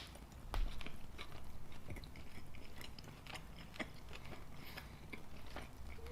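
Close-miked chewing of a bacon cheeseburger: a first big bite about half a second in, then moist, crunchy chewing with small irregular clicks and crackles.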